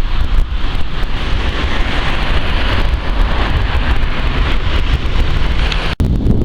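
Wind buffeting the microphone in a loud, uneven low rumble over a steady rushing hiss, with a sudden brief dropout about six seconds in.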